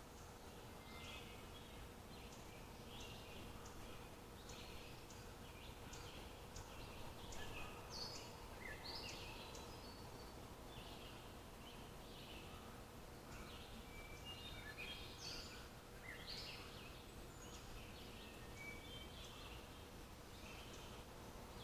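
Small songbirds chirping and twittering in many quick, short calls, faint over a steady background hiss with a low steady hum.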